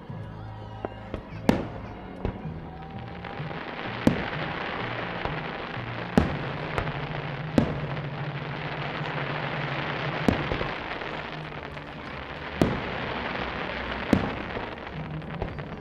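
Aerial fireworks shells bursting: about eight sharp bangs, a second or two apart, over a continuous crackling hiss of glittering star effects.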